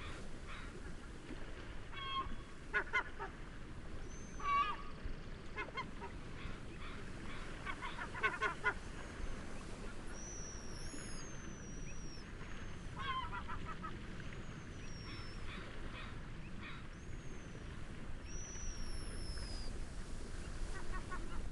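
Bird calls over a steady hiss of wind and waves: several short bursts of rapid, nasal, honking calls, and from about four seconds in, a series of high whistles that each fall in pitch.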